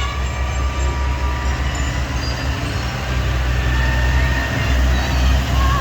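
Farm tractor engines running in a steady low rumble, swelling a little near the end.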